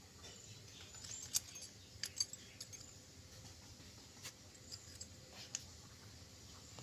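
A few sharp, light metallic clicks and clinks, spaced irregularly, the loudest two in the first half, as from small metal parts being handled.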